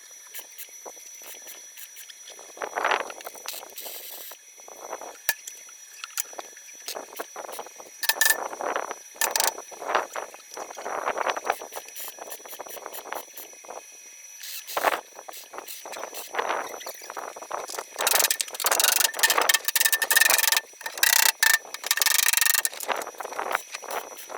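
Irregular knocks, clicks and scraping from hand work on a truck cab, with a loud stretch of rasping noise about three quarters of the way in.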